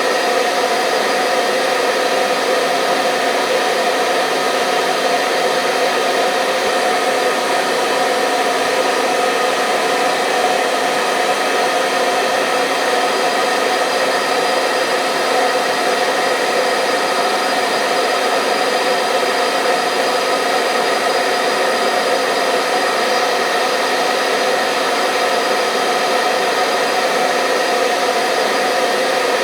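Hair dryer blowing steadily, a constant whooshing hum with a steady motor tone and no change in speed, used as white noise to lull a baby to sleep.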